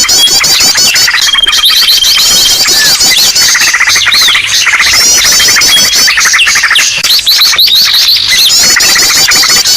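Dense, loud chorus of many small birds chirping and trilling over one another, with a held whistle note now and then: a 'noisy birds' lure call (suara pikat burung ribut) used to draw wild birds in.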